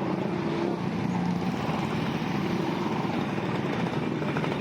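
Steady road traffic noise, motor vehicles running along the road.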